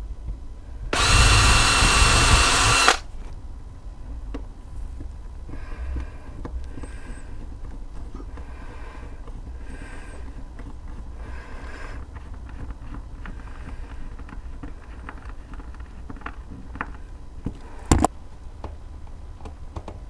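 Power drill driving a screw in one loud burst of about two seconds near the start, followed by quieter handling sounds: faint short whirs, small clicks and one sharp knock near the end.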